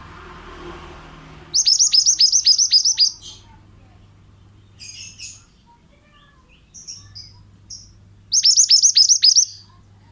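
Mantenan bird (pied bushchat) singing: two loud bursts of about seven quick, high downslurred notes each, one near the start and one near the end, with a few soft short notes in between.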